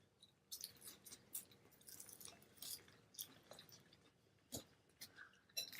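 Faint, irregular crunching and chewing of Caesar salad with croutons close to the microphone.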